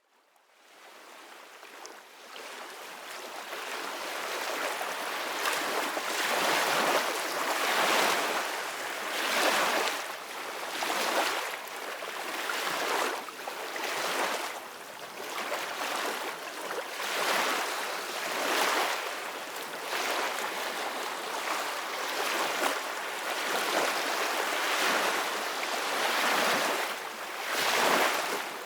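Sea waves washing and splashing in repeated surges, one every second and a half to two seconds, fading in from silence over the first few seconds.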